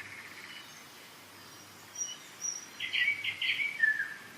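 Songbirds singing: a short trill at the start, faint high whistles, then a louder burst of chirps about three seconds in, followed by a falling whistled note near the end.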